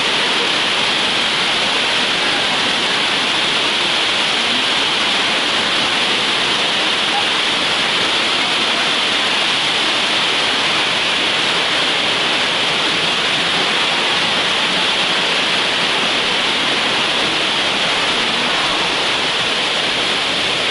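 Waterfall rushing as a loud, steady, unbroken roar of water.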